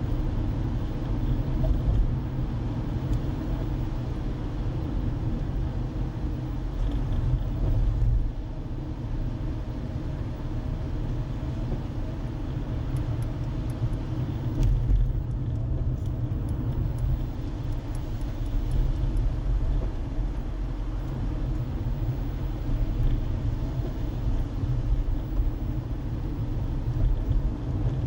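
Road and engine noise of a moving car heard from inside the cabin: a steady low rumble of tyres and engine with small rises and falls.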